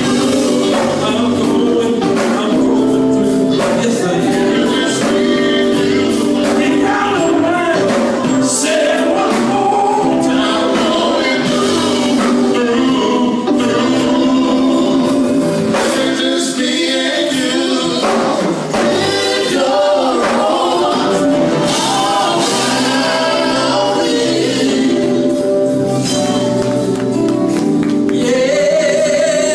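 Gospel vocal group singing in harmony with percussion.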